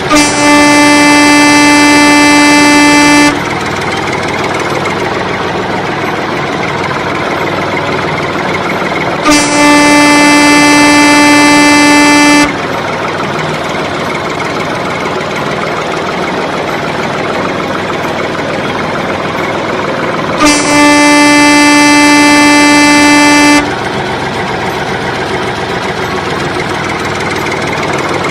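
A vehicle horn sounding three long honks of about three seconds each, on one steady pitch, spaced several seconds apart, over a steady vehicle-like rumble.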